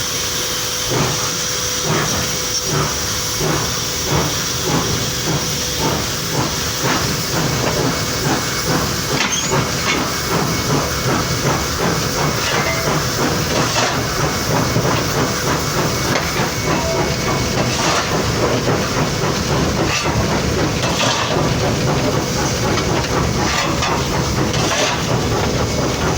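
NSW 59 class steam locomotive heard from its cab: steady steam hiss over rhythmic exhaust beats, about two a second at first and less regular later, with rail noise underneath.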